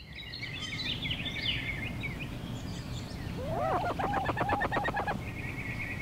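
Birds singing over a low outdoor rumble: quick chirps in the first two seconds, a fast run of about ten looping notes a little past the middle, then a steady buzzy trill near the end.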